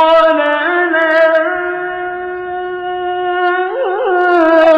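Male Quran reciter's voice holding one long, steady note in melodic tajweed recitation, with a brief wavering ornament near the end.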